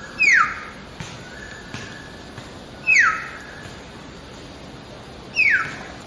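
A perched bird calling: three loud, sharp calls that each sweep quickly down in pitch, about two and a half seconds apart, with a softer level note before the first two.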